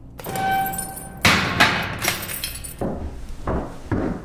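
A ringing tone, then a sudden loud crash with glass shattering and clinking, followed by several thuds.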